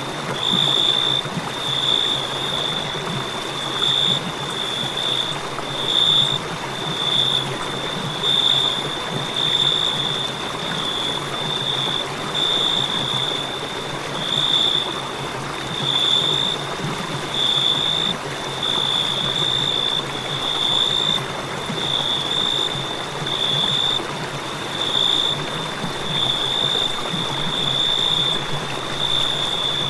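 A cricket trilling on one high, steady pitch, the trill breaking briefly about once a second, over a steady hiss of background noise.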